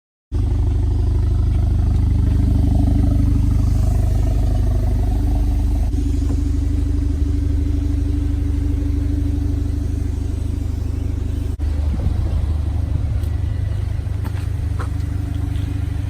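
Car engine running steadily with a deep, loud low hum, cutting in suddenly at the start and changing briefly near the two-thirds mark.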